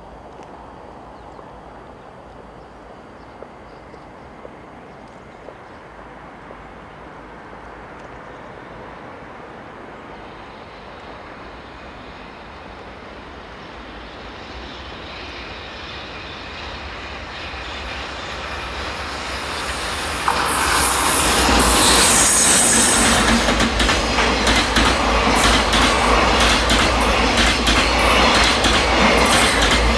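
Freight train approaching and passing: its rumble grows over several seconds, then turns suddenly loud about twenty seconds in as it comes close, with a dense rapid clatter of wagon wheels on the rails.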